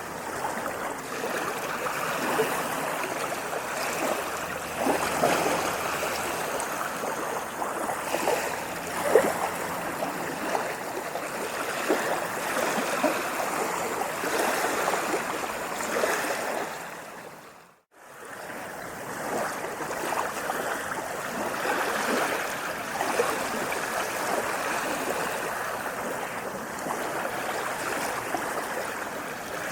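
Water washing and splashing continuously, a steady rush full of small splashes, as of small waves lapping. It briefly fades out to silence about two-thirds of the way through, then comes back.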